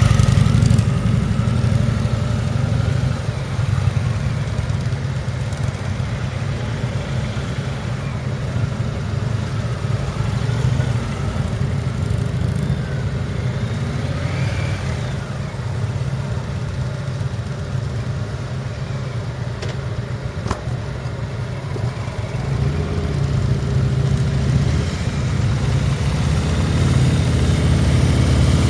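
Heavy V-twin motorcycles running at low speed through a tight cone weave, the engine note rising and falling with the throttle. Loudest at the start, fading through the middle and building again over the last several seconds.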